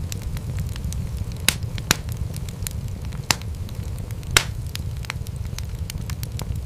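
Wood fire crackling in a fireplace: a steady low rumble of flames with frequent small crackles and four louder sharp pops spread through the middle.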